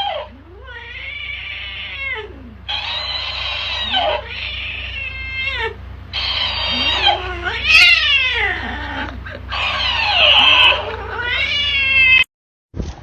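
A cat yowling in a string of long, drawn-out wails that rise and fall in pitch, five or six of them. Near the end the sound cuts off abruptly.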